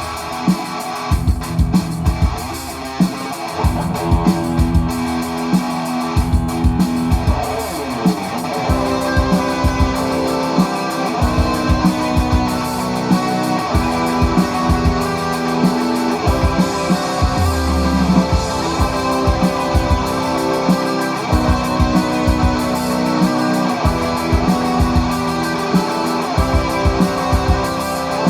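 Live instrumental rock music: electric guitar playing over bass guitar, with a steady beat.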